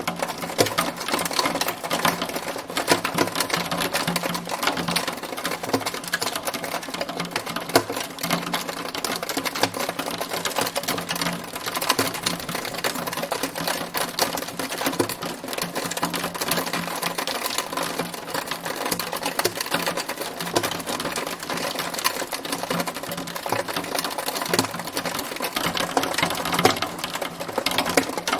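Hailstones pelting a hard surface in a steady, dense clatter of many small, quick impacts.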